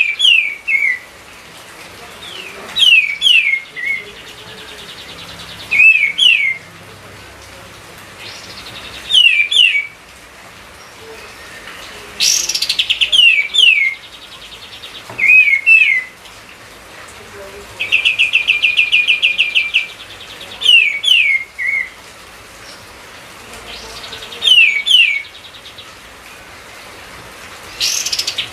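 Kapas tembak (a bulbul) singing loudly in short repeated phrases of two or three quick falling whistles, one about every three seconds, with a longer rapid rattling trill twice near the middle.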